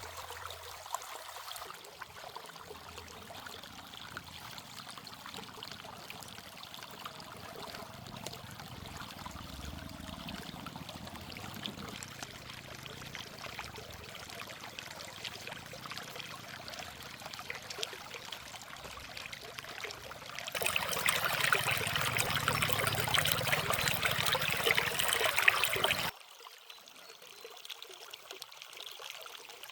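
Water running and trickling, with a much louder rush of about five seconds near the end that starts and stops abruptly.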